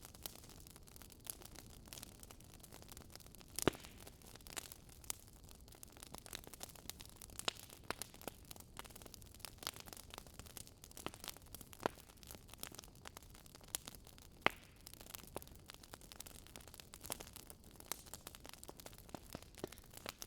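Wood fire crackling: irregular sharp pops and snaps over a faint steady hiss, with the loudest pops about four seconds in and again near fifteen seconds.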